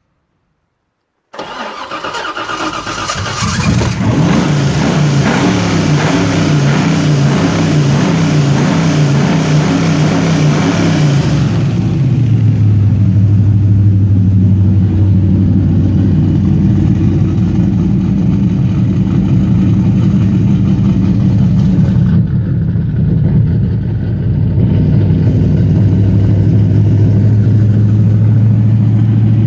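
Carbureted LS1 V8 turning over and firing on its first start-up, about a second in. It runs fast and rough for several seconds, then about twelve seconds in drops to a steadier, deeper idle. The exhaust is a stainless dual 3-inch system with a Spintech Super Pro Street muffler.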